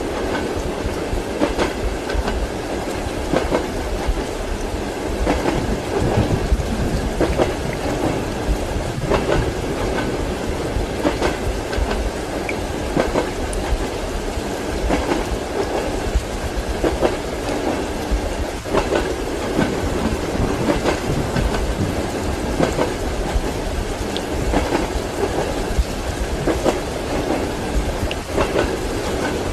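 Passenger train wheels clacking over rail joints, heard from inside a compartment, over a steady running rumble, with knocks every second or two. Rain hisses against the carriage.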